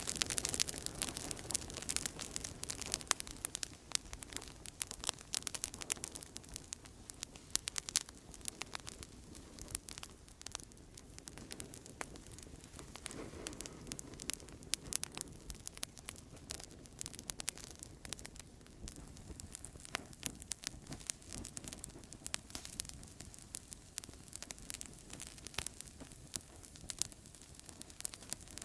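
Outdoor campfire crackling: frequent sharp pops and snaps of burning wood over a soft steady hiss, busiest and loudest in the first few seconds.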